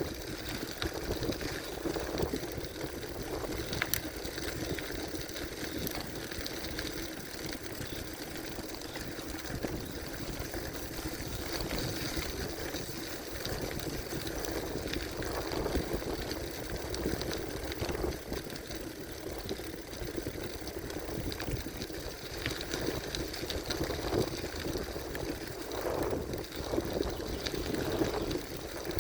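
Gravel bicycle being ridden: steady rolling noise of the tyres and drivetrain, with a few sharp clicks and rattles.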